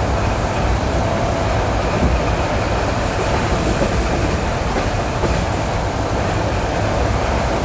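ED9E electric multiple unit running on jointed rail track, heard from inside a carriage: a steady rumble of wheels on rail with a faint steady whine.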